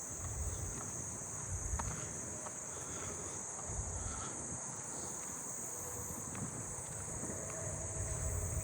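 Chorus of crickets and katydids: a steady, unbroken high-pitched trilling.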